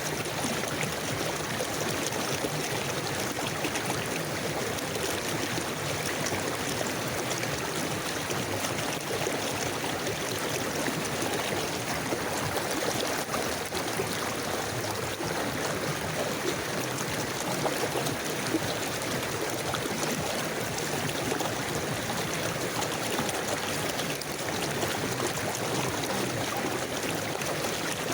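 Forest river flowing steadily: an even, continuous rush of water with no breaks or distinct events.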